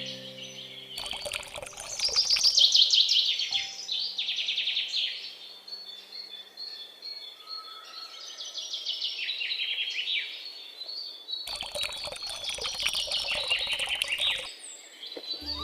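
Birds singing: rapid repeated trills and quick falling chirps, one phrase after another. A brief rushing, splashy noise joins near the start and again for a few seconds near the end.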